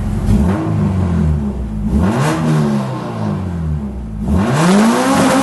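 Honda B18C 1.8-litre DOHC VTEC four-cylinder engine being revved in neutral: a few quick blips up and down, then a longer rev about four seconds in.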